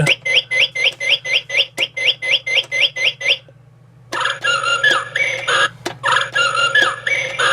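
Vintage motion-activated singing-bird cage toy playing its electronic birdsong: a fast run of rising chirps, about four a second, for three seconds, then a short pause and a varied warbling song. A steady low hum runs underneath.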